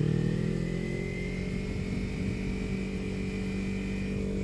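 Kawasaki Ninja 300's parallel-twin engine running at a steady pace through an Akrapovič slip-on exhaust while riding. The engine note eases slightly in the first second, then holds even.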